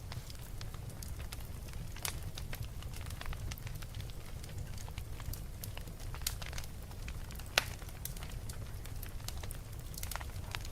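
Fire crackling, with irregular sharp pops over a steady low rumble. One pop, about three quarters of the way through, is much louder than the rest.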